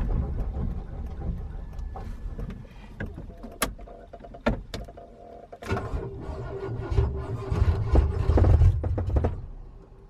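Pickup truck running on a test drive, a low engine and road rumble with scattered clicks and rattles; the rumble swells louder about six seconds in, then dies away shortly before the end.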